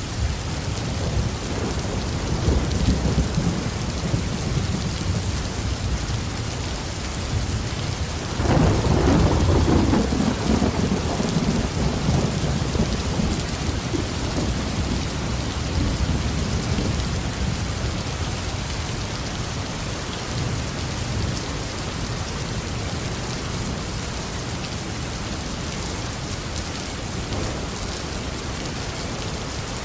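Heavy rain falling steadily on a roof, with rolling thunder. A loud crack of thunder comes about eight seconds in and rumbles away over the next several seconds, and the rain carries on.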